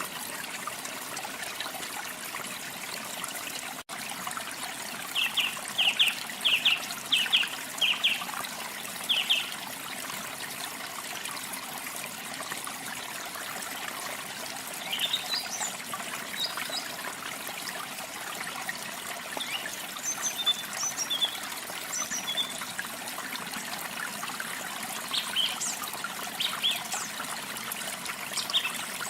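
Steady trickling and splashing of a small waterfall, with songbirds chirping over it: a quick run of about seven short chirps between about five and nine seconds in, then scattered higher chirps later. The sound drops out for an instant about four seconds in.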